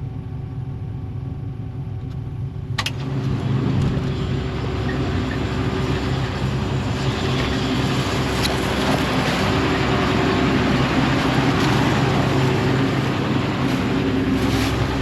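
John Deere combine running while harvesting corn: a steady mechanical drone with a low engine hum. A sharp click comes about three seconds in, and after it the noise gets louder and brighter.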